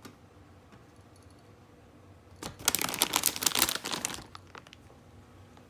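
Plastic cat-food packaging crinkling as it is handled, a dense crackle lasting about two seconds starting a couple of seconds in.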